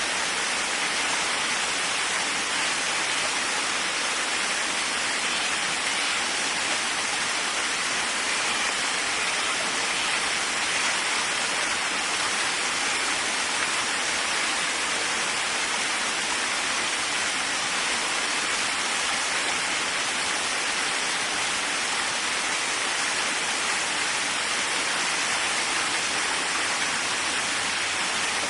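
Waterfall: water falling and splashing in a steady, unbroken rush, strongest in the hiss and spray rather than a deep rumble.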